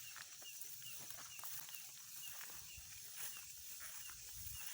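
A bird calling a short, high, falling chirp over and over, about two to three times a second.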